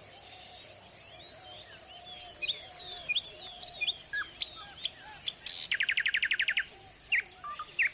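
Birds chirping in short calls and quick pitch glides over a steady high insect drone, with a fast rattling trill for about a second a little past the middle.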